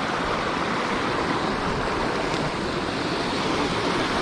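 Steady rush of fast-flowing water, an unbroken hiss and roar.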